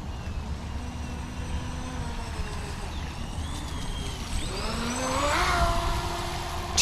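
Pro Boat Recoil 2 18-inch RC boat's brushless motor whining as it runs on the water, its pitch gliding up and down with the throttle over a steady low rumble. About four and a half seconds in, the whine rises and is loudest a second later.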